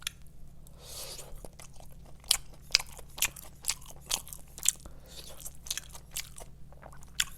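Close-up chewing of KFC Chizza, a chicken-base pizza with ham and melted cheese: irregular short, sharp mouth clicks and crunches.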